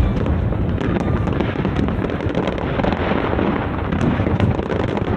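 Aerial fireworks going off in a dense, continuous barrage: overlapping low booms merge into a steady rumble, with many small sharp crackles and pops on top.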